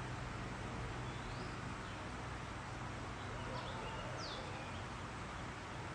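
A few short bird chirps, rising and falling glides, over steady background noise and a low hum.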